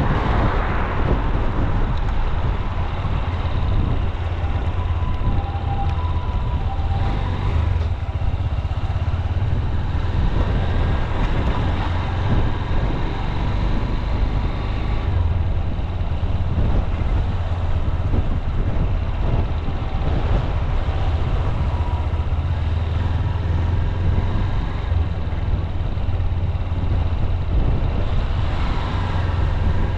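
Honda CB200X's single-cylinder engine running steadily as the motorcycle cruises at an easy pace, with steady road and wind noise.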